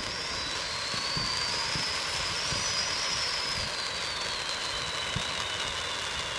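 Spring Fling ground firework going off with a steady hiss and a whistle that rises, then slowly falls in pitch, with a few faint pops.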